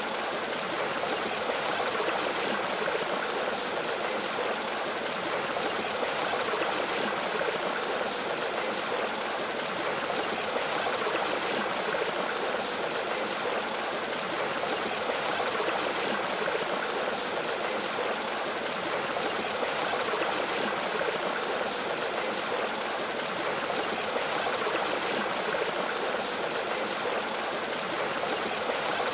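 Mountain stream flowing over rocks with a small waterfall: a steady, even rush of water.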